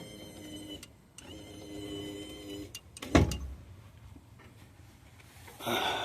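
A steady whine that breaks off briefly and then runs on for about another second and a half, followed about three seconds in by a single loud thump and, near the end, a short burst of noise.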